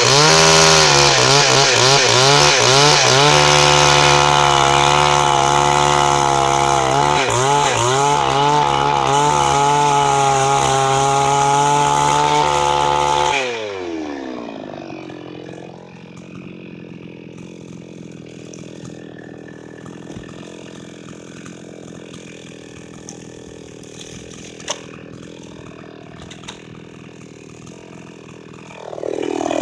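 Two-stroke chainsaw, a Chinese-made saw, running at full throttle with its pitch wavering as it cuts wood. About halfway through it drops to idle and idles steadily, then revs up again near the end.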